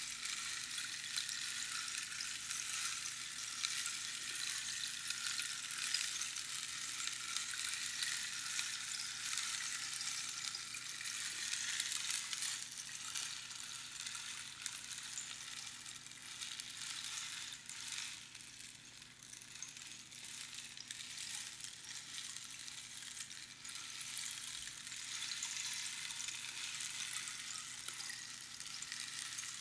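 Rainstick: the pebbles or beans trickle down over the pins inside the hollow cactus tube as a steady, dense rattling hiss like falling rain. The trickle thins out about two-thirds of the way through, then builds again.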